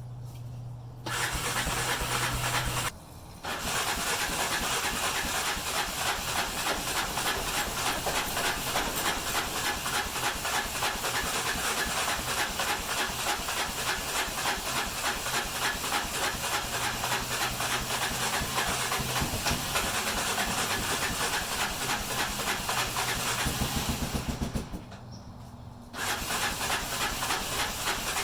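Electric starter cranking the cold engine of a 1986 Honda FourTrax 350 ATV in three presses: a short one about a second in, a long one of about twenty seconds, and a short one near the end. The engine is slow to catch because its electric fuel pump only runs while the starter button is held, so fuel has to be pumped up to the carburettor first.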